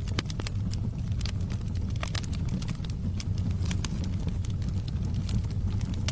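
Logs burning in a fireplace: a steady low rumble of the fire with frequent, irregular sharp crackles and pops.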